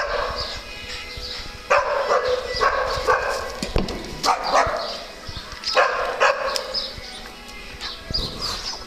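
Small dogs barking repeatedly while playing, short sharp barks coming in quick pairs and clusters.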